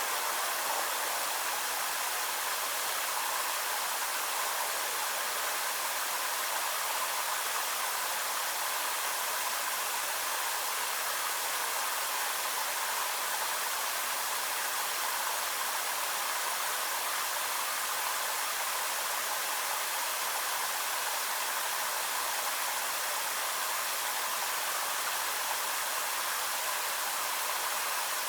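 Steady, even hiss with no distinct events, holding the same level throughout.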